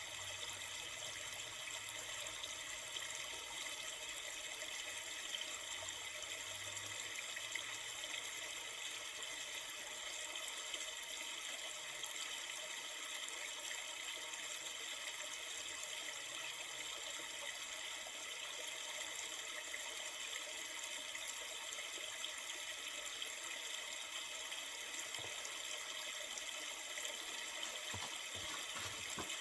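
River flowing, a steady, unbroken rush of water.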